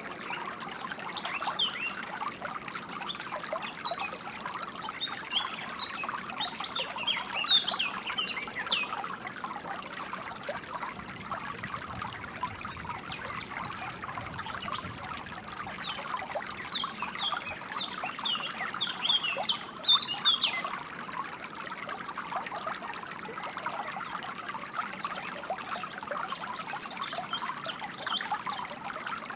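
A stream trickling and burbling steadily, with small birds chirping over it in quick bursts, busiest twice in the middle and again near the end.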